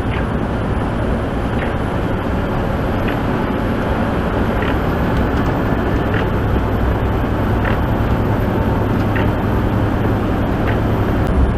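Steady engine drone and road noise heard from inside a moving truck's cab on the highway, with a faint short sound repeating about every second and a half.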